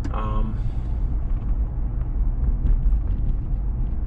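Steady low road and engine rumble inside the cab of a Chevy Silverado pickup while driving, with a short pitched sound right at the start.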